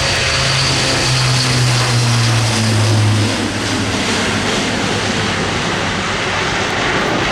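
Airbus A400M's four TP400 turboprop engines and propellers droning loudly as it flies past. The low propeller hum drops in pitch over the first three seconds, then gives way to a steady engine rush.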